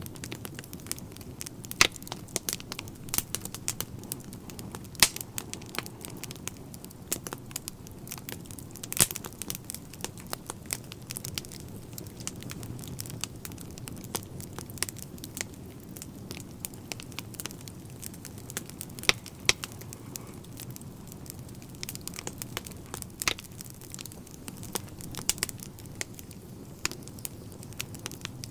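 Wood fire burning in a fireplace: a steady low rumble of flames with frequent irregular sharp crackles and pops, a few of them much louder than the rest.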